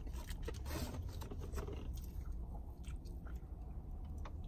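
A person biting into and chewing a fried mozzarella stick with soft, irregular crunching clicks over a low steady hum.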